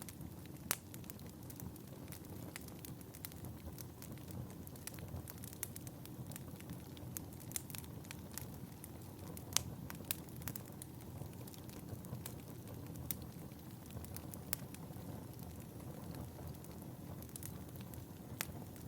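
Fire crackling in a fireplace: a steady low rumble of flames with frequent sharp snaps, and louder pops about a second in and about halfway through.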